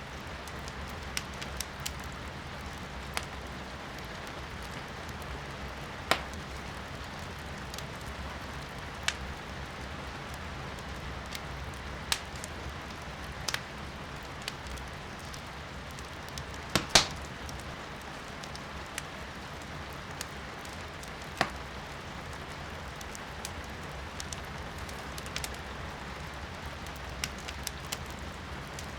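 Wood fire crackling in a fireplace, with sharp pops every second or few seconds, the loudest about 17 seconds in, over a steady hiss of rain heard from indoors.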